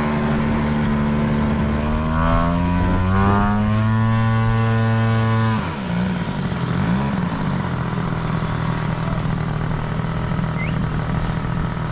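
Model airplane engine run up on the ground: it climbs in pitch and holds at high throttle, is cut back sharply to idle about halfway through, blips once briefly, then idles steadily.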